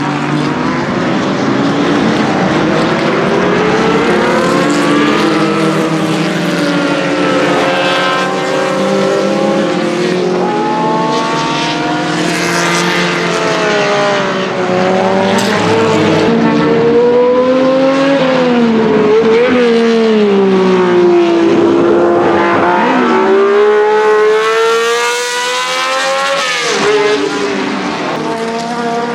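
Ferrari 1512's 1.5-litre flat-12 racing engine at high revs, its pitch climbing and dropping repeatedly with throttle and gear changes. At times more than one engine pitch can be heard at once.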